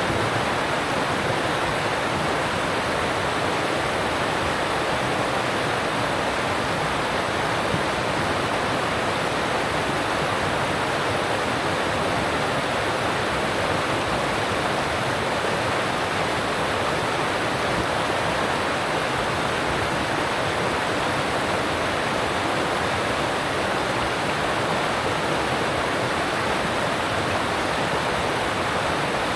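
Alpine mountain stream rushing steadily over rocks: an even, unbroken wash of water.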